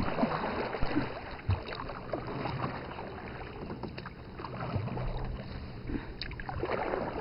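Canoe paddles dipping and splashing in lake water as the boat is paddled, with irregular small splashes and knocks.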